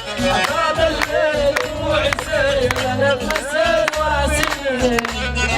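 Live Arabic wedding music: an ornamented, wavering melody over a steady drum beat and bass.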